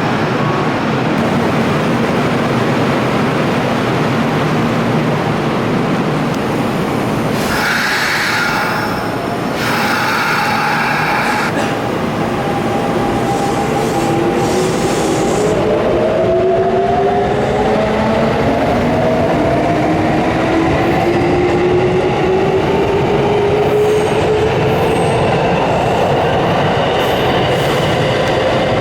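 Electric commuter train at a station platform: a loud steady rumble with two short bursts of hiss about eight to eleven seconds in, then the traction motors' whine rising slowly in pitch as the train pulls away and gathers speed.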